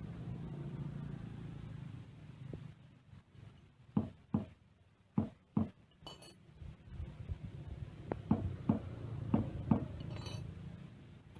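Hard metal tools clinking and tapping during a motorcycle tyre puncture repair, in two short runs of sharp clinks a few seconds apart over a low background hum.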